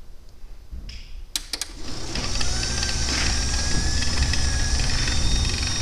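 A few sharp clicks, then a jackshaft garage door opener starts and runs steadily, lifting a sectional garage door on nylon ball-bearing rollers; the door goes up smooth and quiet.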